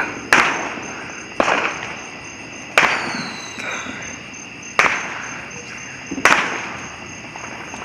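Fireworks bursting: five sharp bangs, one to two seconds apart, each trailing off in a long echo. A faint falling whistle follows the third bang.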